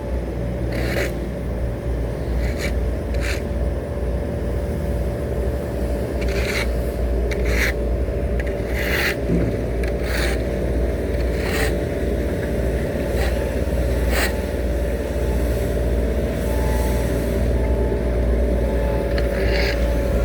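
Heavy road-construction machinery running with a steady low engine rumble, overlaid by short scraping sounds every second or so.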